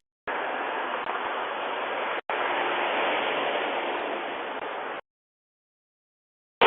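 Steady rush of passing road traffic, tyre and engine noise with no distinct engine note. The sound cuts out completely for an instant a couple of seconds in, then stops about five seconds in.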